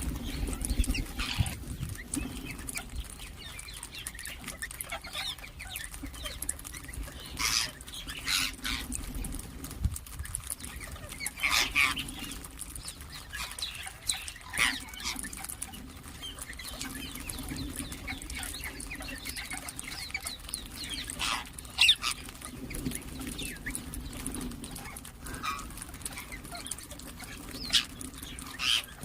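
Ringneck parakeets giving short, sharp calls and chirps every few seconds, over a steady low hum.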